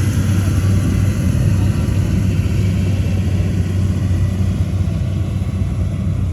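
Heavy machine's diesel engine running steadily, a dense low rumble.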